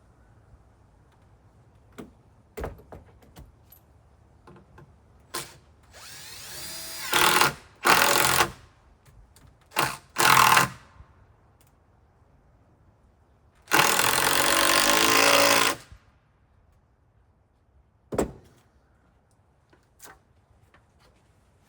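Power drill driving a long screw through a wooden roof beam in several bursts, the longest about two seconds, a little past the middle. A few sharp knocks of wood fall between the bursts.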